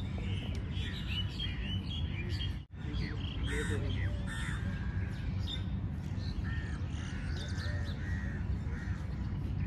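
Many birds calling, with short calls overlapping one another, over a steady low rumble; the sound drops out for an instant about three seconds in.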